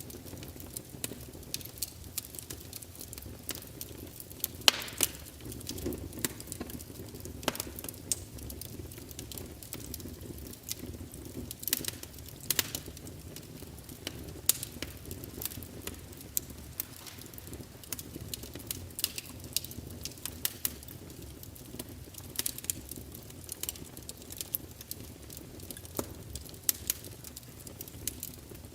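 Wood fire crackling: irregular sharp pops and snaps, some louder than others, over a steady low rumble of burning.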